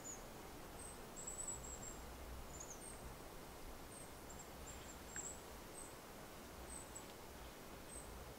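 Faint, thin, very high-pitched calls of small birds: about a dozen short notes scattered through, some gliding slightly, over a low steady background hiss.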